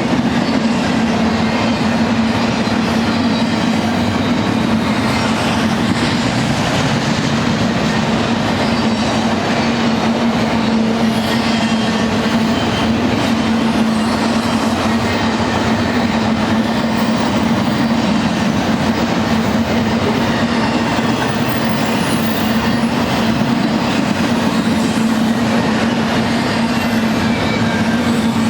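A BNSF freight train rolls past with a loud, steady rumble of wheels on rail and clickety-clack, and a constant low hum underneath that never lets up.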